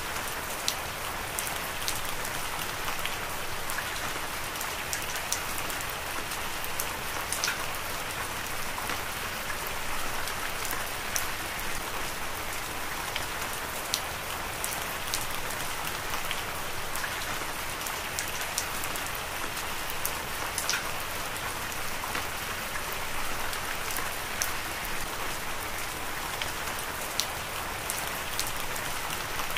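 Heavy rain falling steadily, a dense even hiss with many scattered sharp drop clicks.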